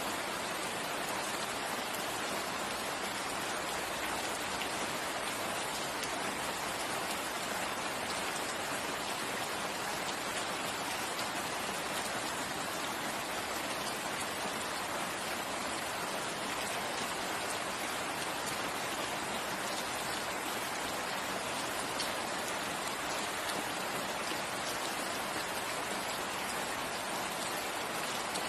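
Steady rain falling, an even hiss of many raindrops with a few faint individual drop ticks.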